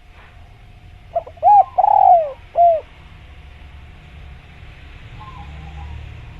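Spotted dove (tekukur) cooing: one phrase of four notes about a second in, the third note the longest and falling in pitch.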